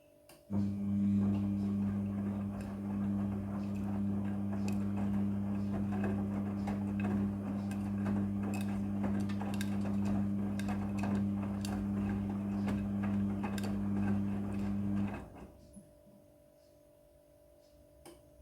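Midea front-loading washing machine with a water valve or pump running: a steady electric hum with water rushing and crackling through. It starts about half a second in and cuts off sharply about fifteen seconds in.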